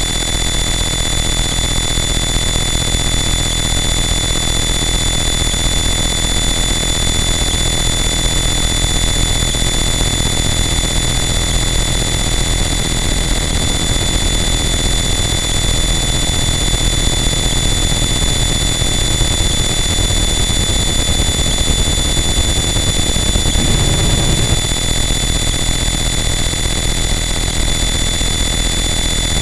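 Harsh noise wall: a loud, unchanging wall of dense distorted noise filling every pitch, with steady high whining tones held on top. A little over three-quarters of the way through, a low rumble swells up for a second or two.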